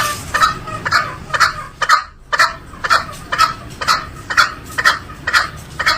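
Green junglefowl calling: short calls repeated about twice a second, with a brief break in the sound just after two seconds.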